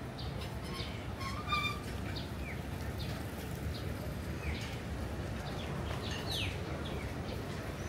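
Small birds chirping, many short calls and a few quick falling notes scattered throughout, over a steady low outdoor background noise.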